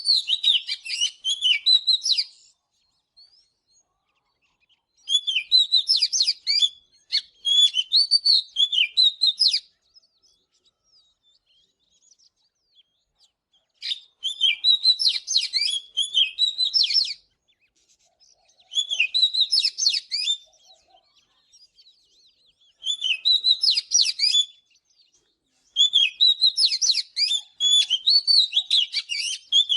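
Oriental magpie-robin singing: loud, varied whistled phrases with rapid chirps and slurred notes. The song comes in bouts of a few seconds with short pauses between them.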